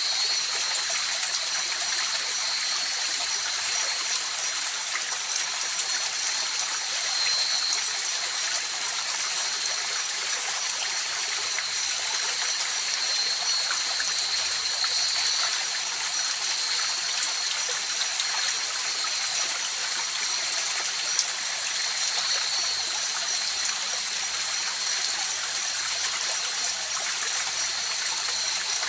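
Steady flowing river water, a continuous rushing and trickling, with an unbroken high-pitched tone over it.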